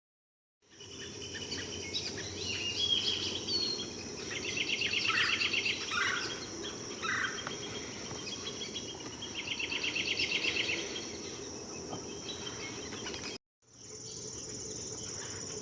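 Wild birds calling, with two rapid trilled phrases among scattered chirps, over a steady high-pitched insect drone. The sound cuts out for a moment near the end, then the insect drone carries on.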